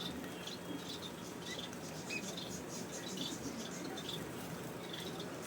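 Gouldian finches giving short, high-pitched peeping calls, several overlapping, over a steady low background hiss.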